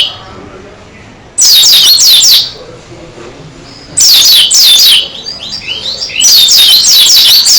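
Pleci dakun (white-eye) singing loud bursts of rapid, high, down-slurred notes, three phrases in all, with softer twittering between them.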